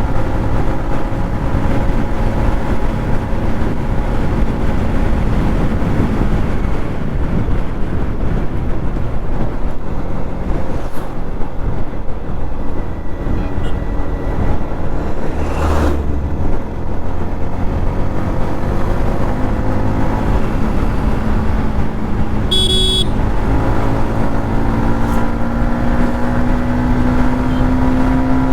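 Yamaha MT-15's 155 cc single-cylinder engine running steadily at highway cruising speed, with wind rush on the microphone. A brief high-pitched sound comes about two-thirds of the way in, and the engine note then climbs slowly as the bike speeds up.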